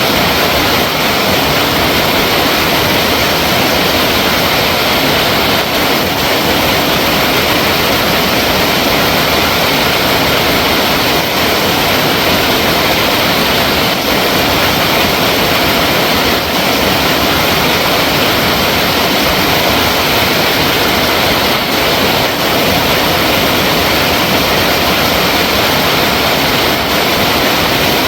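Flowing water rushing steadily, with no change throughout.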